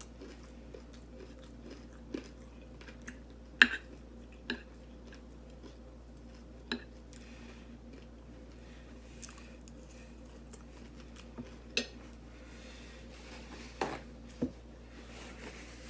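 A person eating close to the microphone: faint chewing with a few short sharp clicks and clinks of utensils on a plate, the loudest about three and a half seconds in.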